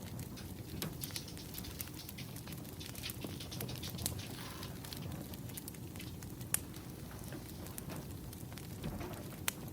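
Firewood burning, crackling with scattered sharp pops over a low, steady rush of flame.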